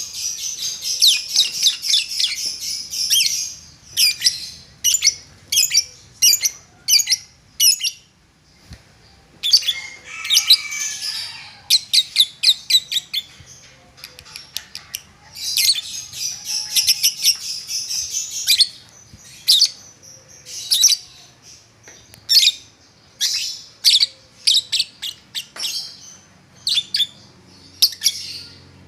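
Lovebird singing: long rapid chattering runs of high chirps (the 'ngetik' or typing song) near the start, about a third in and just past halfway, broken by strings of short, sharp separate chirps.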